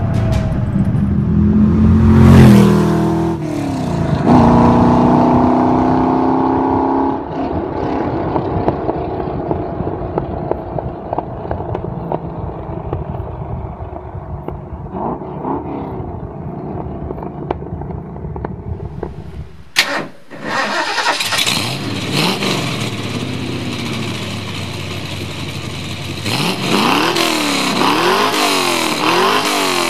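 De Tomaso Pantera's 351 Cleveland 5.8-litre V8, breathing through Hall Pantera headers and exhaust, accelerating hard with a gear change about three seconds in. It then holds high revs and fades away into the distance. After a cut the same V8 runs at idle and is blipped about three times near the end, each blip a quick rise and fall in pitch.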